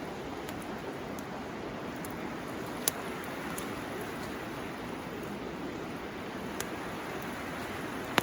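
Steady rushing of a river, with a few sharp pops and crackles from a burning bamboo fire. The loudest pop comes about three seconds in.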